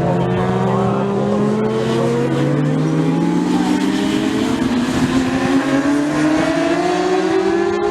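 Several racing motorcycle engines, 1000cc and 600cc sport bikes, running hard at high revs. Their pitch climbs steadily as they accelerate.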